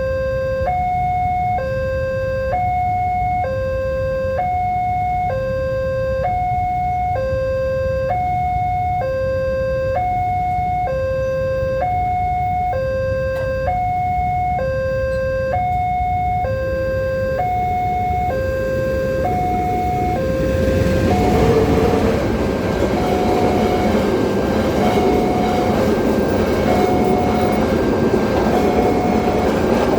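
Railway level-crossing warning alarm sounding two alternating tones, switching about once a second. About twenty seconds in, a diesel-hauled passenger train passes, its loud rush of wheel and engine noise rising over the alarm, which keeps sounding.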